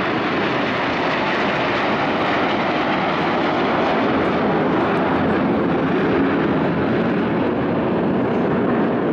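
Aermacchi MB-339 jet trainers in flight, a steady rush of jet engine noise that holds without breaks.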